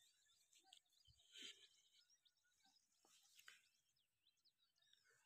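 Near silence, with faint, distant bird chirps.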